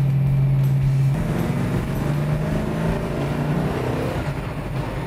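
1970 Ford Mustang Boss 302's high-output 302 V8 running as the car drives. Its steady note shifts and gets a little quieter about a second in.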